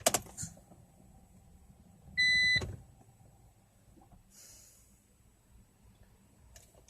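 A car's dashboard warning chime gives one short, loud electronic beep about two seconds in, after the ignition is switched on, over the faint steady whirr of the heater's flap actuators moving. A click at the start and a faint short hiss about four and a half seconds in.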